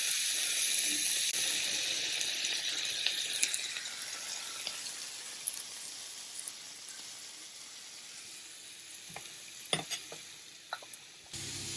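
Slices of plant-based chicken breast frying in a pan with herbs: a steady sizzle that slowly grows quieter. A few light clicks come near the end.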